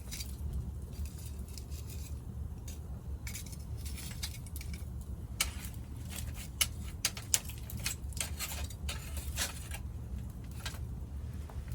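Wood fire crackling: irregular sharp snaps and pops over a steady low rumble, with a cluster of louder pops around the middle.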